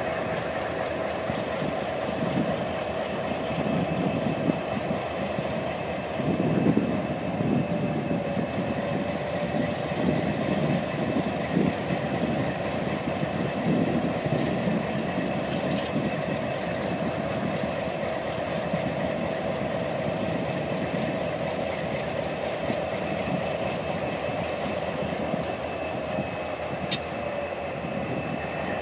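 Diesel locomotives of a loaded grain train growling, their engines' rumble rising and falling with steady whining tones above it, louder for a couple of seconds about six seconds in. A single sharp click near the end.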